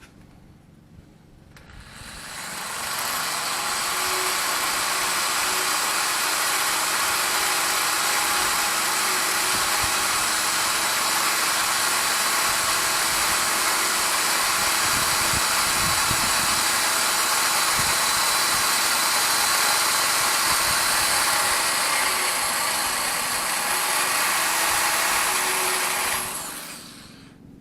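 A die grinder spinning up about two seconds in, running at a steady speed with a bright hiss while it deburrs the engine block's edges, then spinning down near the end.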